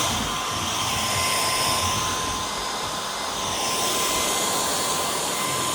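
Cordless stick vacuum running steadily: a high motor whine over the rush of air, the airflow swelling and easing slightly as it works.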